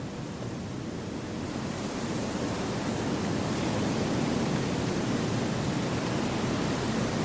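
Wind blowing through forest trees: a steady rushing that swells over the first few seconds and then holds.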